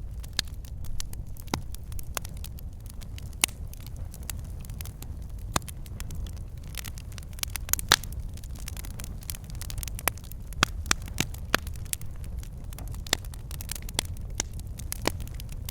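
Wood log fire burning in a fireplace: a steady low rumble of flames with irregular sharp crackles and pops from the logs, one louder pop about halfway through.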